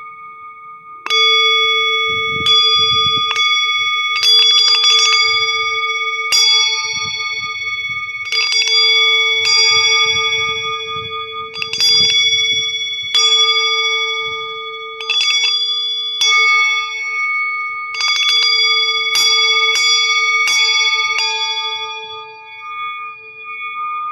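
Metal singing bowl ringing with a steady, wavering hum. It is struck again every second or two, sometimes in quick flurries of strikes, each strike adding bright ringing overtones.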